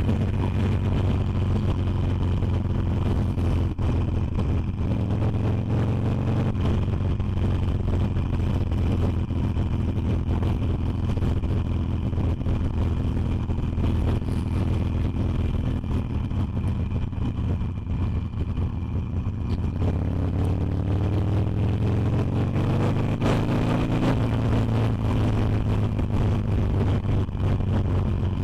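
Harley-Davidson Iron 883's air-cooled V-twin engine running steadily under way, its pitch climbing for a few seconds about two-thirds of the way in as the rider speeds up.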